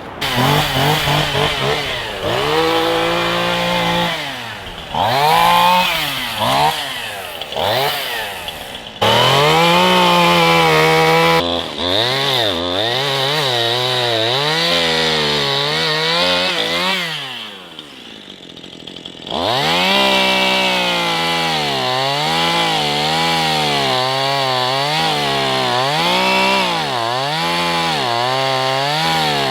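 Gasoline chainsaw felling a tree: the engine revs up and drops back over and over as the chain bites into the trunk, falls to idle for a couple of seconds about two-thirds of the way through, then revs back up and keeps cutting.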